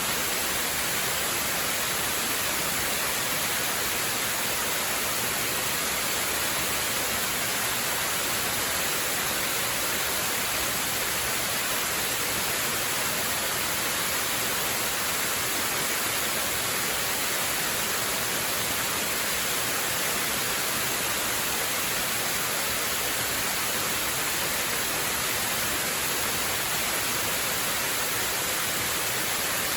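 Waterfall rushing: a steady, unchanging hiss-like roar, heaviest in the high end.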